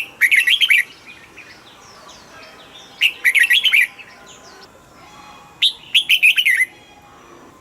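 Red-whiskered bulbul singing: three short, loud, quick warbled phrases about two and a half seconds apart, with fainter bird chirps between them.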